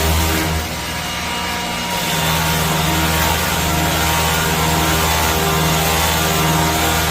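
Electric buffing machine running against a metal cooking table, a steady motor hum under a broad grinding hiss. It eases off briefly about a second in, then runs steady again.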